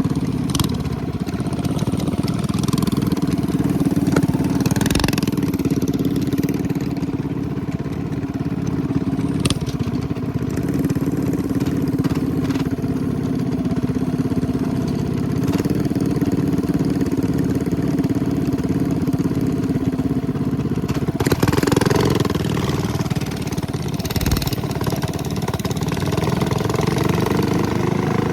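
Minibike's 212cc single-cylinder engine running steadily under way, its pitch rising and falling slightly with the throttle, with a brief louder surge about 21 seconds in.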